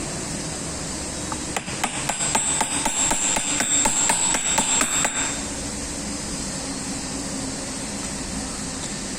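A hammer striking metal in a rapid run of blows, several a second, with a metallic ring, for about four seconds from a second and a half in. A steady hiss runs underneath.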